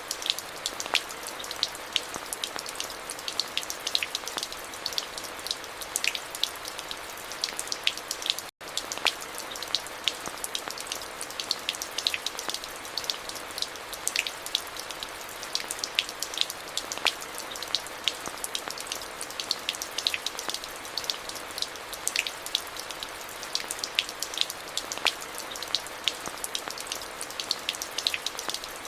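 Steady rain falling, with many individual drops landing close by as sharp, irregular ticks over an even hiss. The sound cuts out completely for a split second about eight seconds in.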